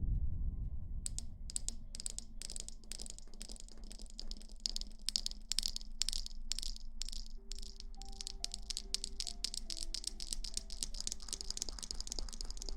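Close-miked ASMR rustling: a dense run of quick, irregular crackling scratches that starts about a second in.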